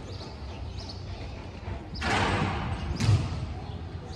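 Outdoor ambience of repeated dull low thuds and faint background voices, with a louder rush of noise from about two seconds in that lasts about a second.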